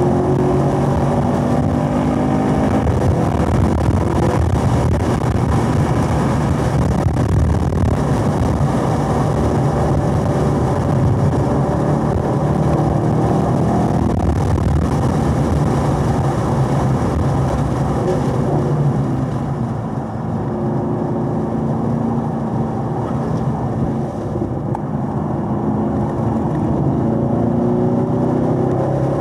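Chevrolet Camaro SS 1LE's 6.2-litre V8 pulling hard at high revs under full throttle, with wind and tyre roar, heard from inside the car. About two-thirds through it drops off as the car brakes and downshifts for a corner, then the revs climb again near the end.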